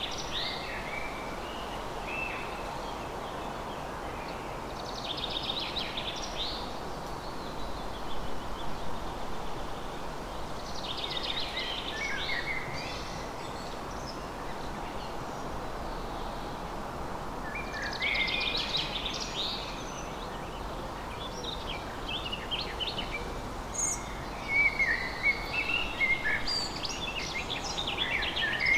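Songbirds singing in short, busy phrases every few seconds, the longest and loudest spell near the end, over a steady background hiss.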